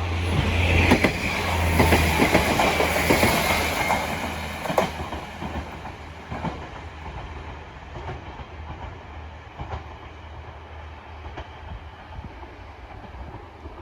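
Diesel railcar passing and moving away, its wheels clacking over rail joints with a brief high squeal in the first few seconds. The engine's low rumble and the clatter fade steadily.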